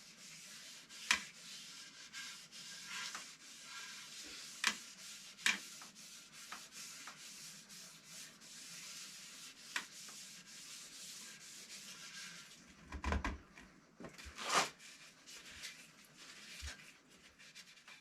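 Stain applicator rubbing and wiping wood stain onto the edges of a wooden guitar body, a steady scratchy hiss, with a few sharp knocks and a low thump as the body is handled.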